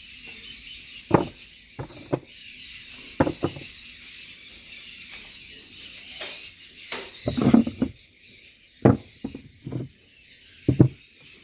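Steady high chatter of many caged birds, with about six short sharp sounds standing out above it, the loudest about seven and a half and ten and a half seconds in.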